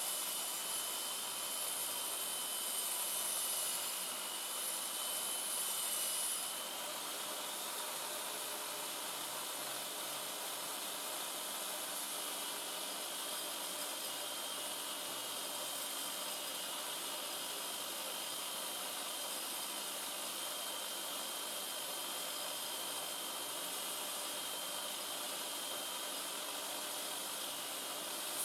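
Home-built belt grinder running at speed, a steady motor-and-belt whine with hiss. About six seconds in, a higher hissing part stops and the sound settles slightly quieter but just as steady.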